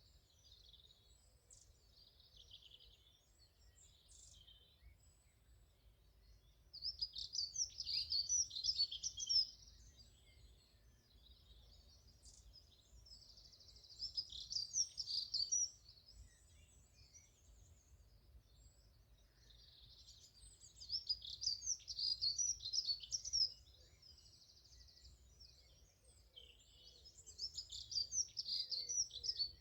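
A songbird singing four phrases of rapid high notes, each about two to three seconds long and several seconds apart, over a faint low rumble.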